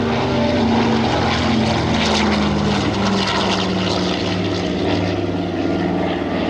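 Piston-engined propeller aircraft flying past, its engine note loud and steady and dropping gently in pitch as it goes by.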